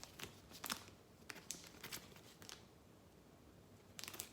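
Faint rustling and crinkling of trading cards and plastic being handled, with soft crisp clicks, a quieter pause, then a quick cluster of ticks near the end.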